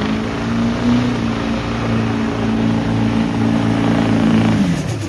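A truck's engine held at high revs under full throttle on a drag-strip pass, its pitch steady, then dropping sharply near the end as the throttle comes off.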